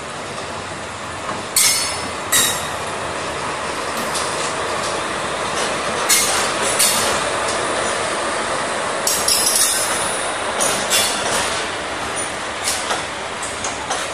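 Indian Railways express train, a WAG-7 electric locomotive followed by passenger coaches, rolling past with a steady rumble. Sharp, irregular metallic clacks come from the wheels striking the rails, a dozen or so.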